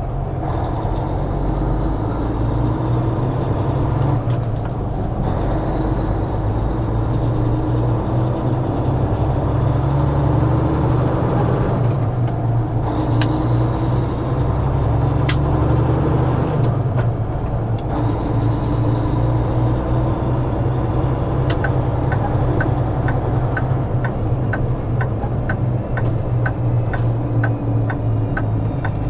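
Semi truck's diesel engine pulling a heavy load, its pitch climbing and dropping back several times as it works up through the gears. Near the end a regular ticking comes in, about two ticks a second.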